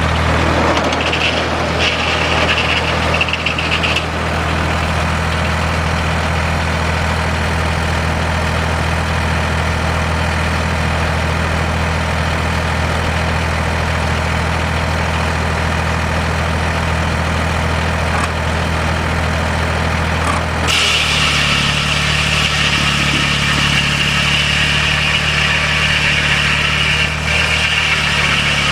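Engine driving the sawmill running steadily. About twenty seconds in its note shifts and a higher hiss rises over it.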